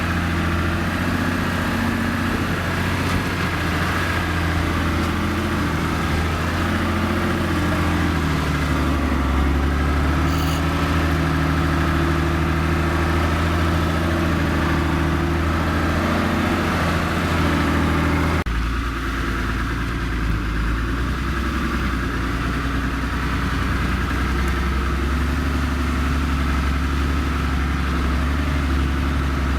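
Vehicle engine running steadily at low revs, with an abrupt change in its sound about two-thirds of the way through.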